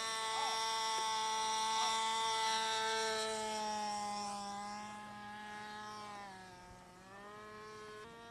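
Radio-controlled model airplane engine buzzing in flight. Its pitch sags and the sound fades from about five seconds in, dips lowest around seven seconds, then steadies at a lower level.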